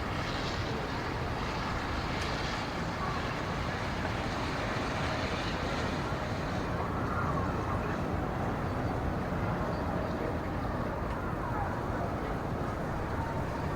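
Steady rumbling background noise with no distinct events, much like distant traffic.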